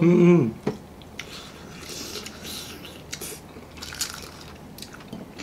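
Close-up eating sounds of people biting into and chewing sauce-coated fried chicken: soft wet chewing with scattered small clicks and crackles. A voice trails off in the first half second.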